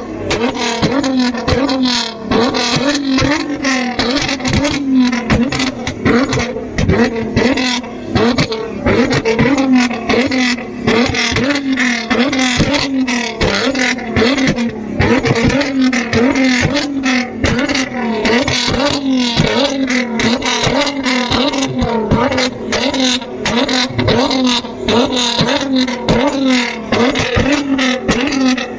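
Car engine revving in short, rapid blips that repeat at an even pace, each one rising quickly in pitch.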